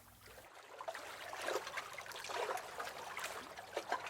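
Recorded lake waves lapping and splashing against a dock: an irregular watery sloshing that swells up about half a second in.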